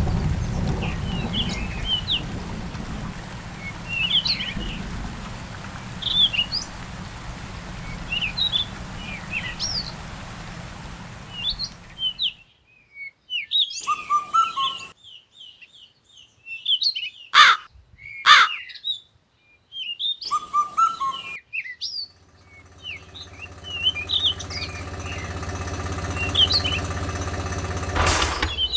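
Small birds chirping repeatedly. A low rumble under them for the first twelve seconds cuts off abruptly; two sharp clicks come a little later, and a low steady hum sets in for the last several seconds, ending in a loud click.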